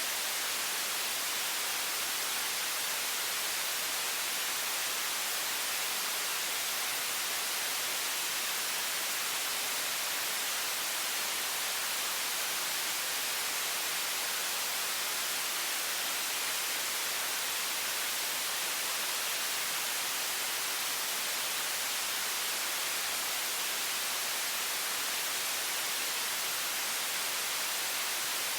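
High-pressure stream of water running from a faucet: a steady, unchanging hiss, strongest in the high register.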